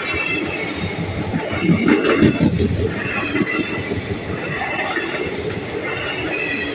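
Indian Railways passenger coaches of an express train running past at speed, the wheels rumbling over the rails and swelling loudest about two seconds in. A high wheel squeal comes and goes.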